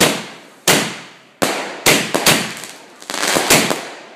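A firework barrage: aerial shells bursting in a string of sharp bangs about every half second to second, each trailing off, then a quicker run of crackling bangs from about three seconds in.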